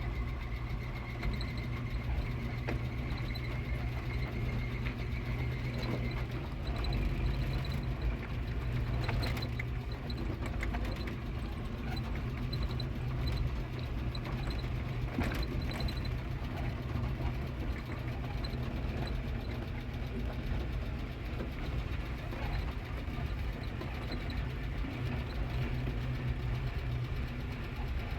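A vehicle engine running steadily while driving over a rough road, with a few sharp knocks, the clearest about nine and fifteen seconds in.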